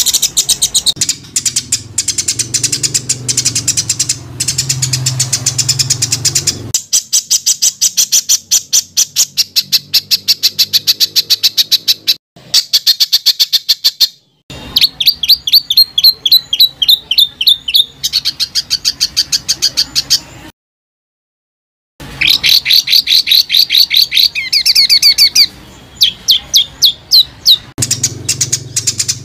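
Songbird song of the 'tembakan' kind used to tutor competition birds: rapid runs of sharp, harsh repeated notes, several a second, in phrases broken by short pauses and one brief total dropout about two-thirds of the way through.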